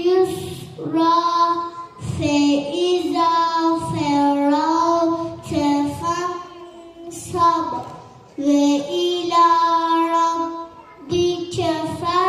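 A child's voice singing a slow melody in long held notes, phrase by phrase with short breaths between.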